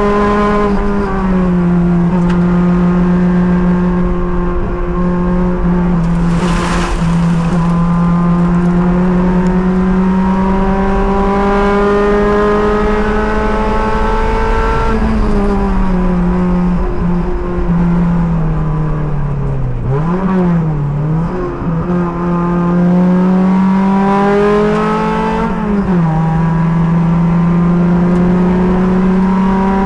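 Race car engine under load, heard from the driver's helmet at track pace. Its note climbs slowly through long pulls and drops sharply at shifts or braking: about a second in, halfway through, twice in quick succession about two-thirds through, and again a little later. A brief rush of noise comes about a quarter of the way in.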